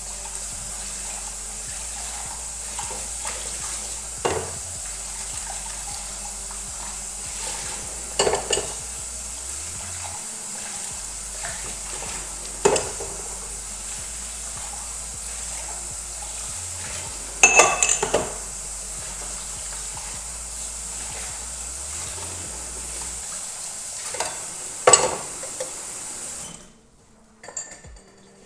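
Dishes and cutlery being washed at a kitchen sink under a running tap: a steady rush of water with occasional sharp clinks and clatters of crockery, and the water cuts off near the end.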